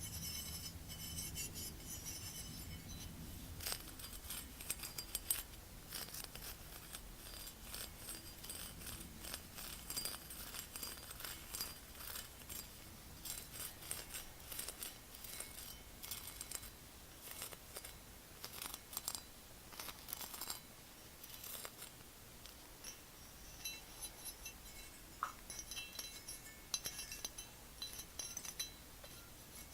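Tapping and scratching on hard objects: a dense, irregular run of small taps, clicks and scrapes.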